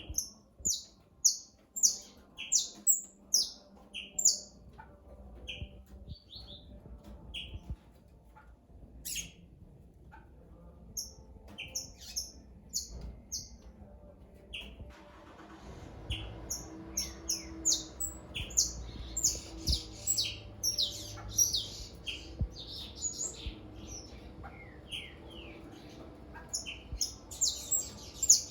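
Several songbirds chirping and calling in short, high notes. The calls are sparse at first and come thick and overlapping from about halfway through.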